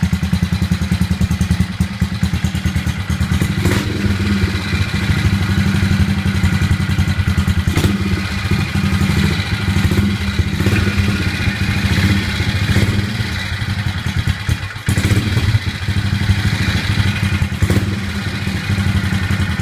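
1969 BSA Victor single-cylinder four-stroke motorcycle engine running steadily after a cold start, a fast, even beat with a few sharp clicks.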